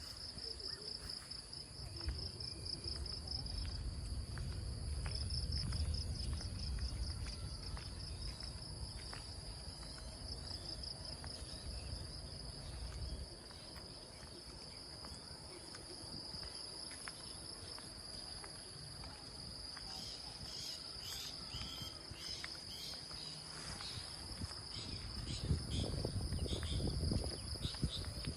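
Insects chirping in a steady, pulsing trill. A low rumble swells in the first half and again near the end, and light ticks come through in the last few seconds.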